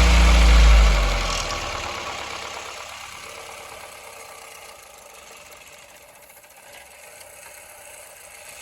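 Toyota Corolla GLI petrol engine just started, its start-up revs falling away over the first couple of seconds as it settles into a steady, quieter idle.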